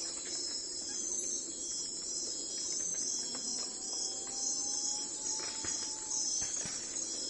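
A steady chorus of insects trilling high and pulsing without a break. A faint, drawn-out whistle rises slightly in pitch through the middle.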